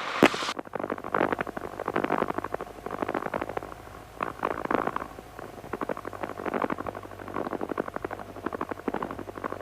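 Crackling static over the light aircraft's headset intercom, with a low steady engine hum underneath.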